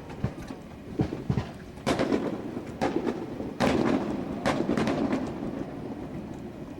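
Aerial fireworks shells bursting in quick succession: about half a dozen sharp booms over a few seconds, each trailing off in a rumbling echo.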